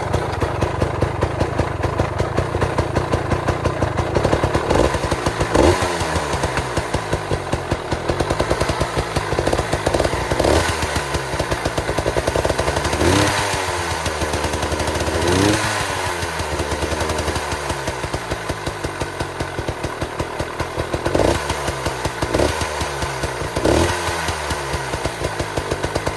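Yamaha PW80's small single-cylinder two-stroke engine fitted with an FMF slip-on exhaust, cold-started without choke and running at once. It idles and is revved up and back down several times, raspy on the throttle.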